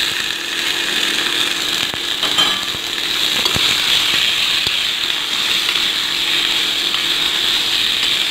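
Tomato pieces sizzling in hot oil in a steel pot, a steady hiss, with a steel spoon stirring and now and then clicking against the pot.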